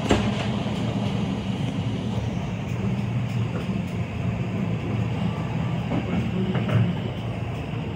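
Class 323 electric multiple unit running at speed, heard from inside the carriage: a steady low hum and rumble from the wheels and running gear.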